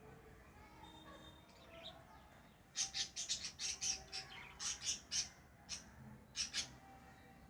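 Lovebirds chirping: after a quiet start, a rapid run of short, shrill, high-pitched chirps lasting a couple of seconds, then two more quick chirps near the end.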